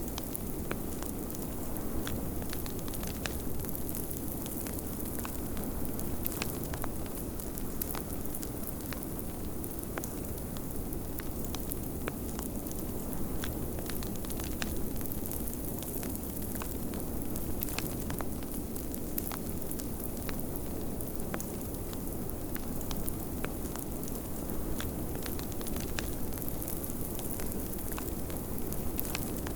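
Wood fire crackling in a fireplace, with frequent irregular sharp pops and snaps, over the steady low rush of snowstorm wind.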